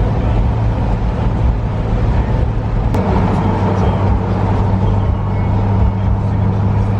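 Steady road and engine noise inside a moving car, a constant low hum with a rushing noise above it.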